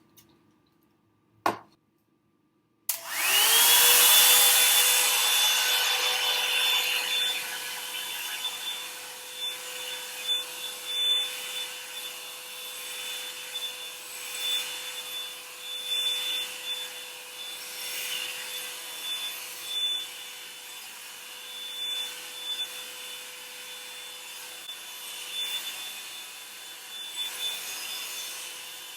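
A single click, then about three seconds in the Revlon One-Step blow dryer brush switches on: its motor whines up to speed within a second and runs steadily on high heat with a rushing airflow, loudest just after it starts and then rising and falling in loudness.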